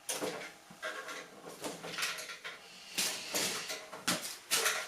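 Irregular handling noises, objects being shifted, scraped and knocked about while someone rummages through debris and equipment, with the loudest clatter about three seconds in and again shortly before the end.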